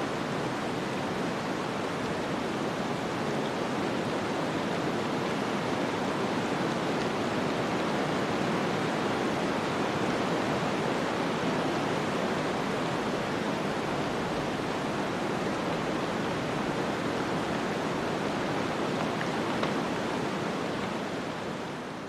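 Steady rushing noise of a snowstorm ambience, wind and blowing snow, even throughout and beginning to fade out near the end.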